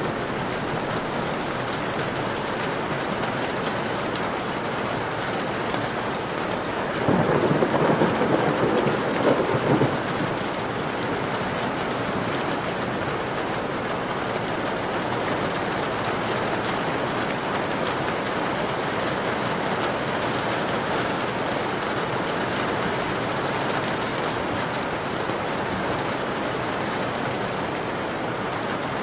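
Steady rain pattering on a window in a thunderstorm, with a louder rumble of thunder about seven seconds in that lasts some three seconds.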